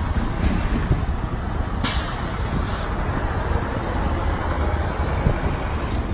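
Road vehicle noise: a steady low rumble, with a sudden hiss about two seconds in that lasts about a second.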